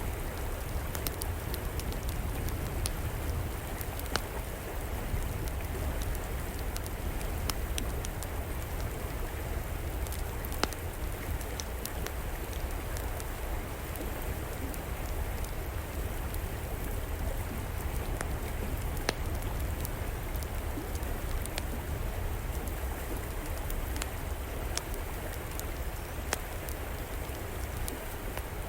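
A river flowing steadily, with an open wood fire crackling over it in scattered sharp pops. Two pops, about ten seconds in and about nineteen seconds in, stand out louder than the rest.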